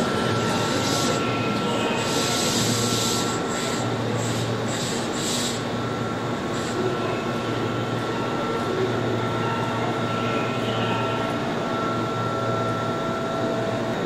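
Keihan 2600-series electric train moving through an elevated station: a steady rumble of wheels and running gear with a faint, steady whine. Rail-joint clicks come in the first few seconds. The sound echoes under the station roof.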